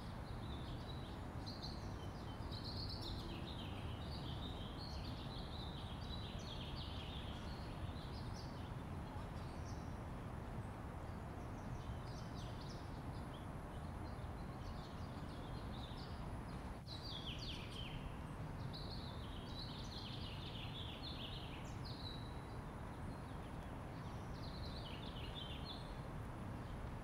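Small birds singing repeated warbling phrases over a steady low rumble of outdoor background noise.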